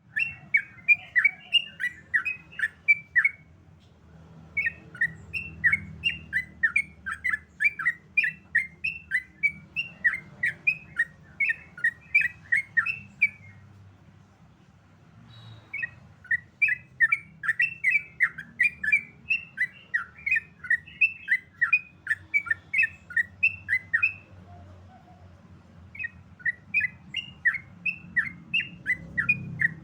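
Yellow-vented bulbul (trucukan) singing its rapid 'ropel' song: fast runs of sharp chirps, four or five a second, each run lasting several seconds with short pauses between them.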